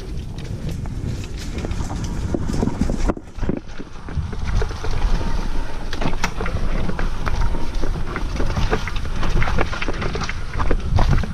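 Mountain bike ridden over rough trail ground: wind buffeting the bike-mounted action camera's microphone under a low rumble, with frequent rattles and knocks from the bike.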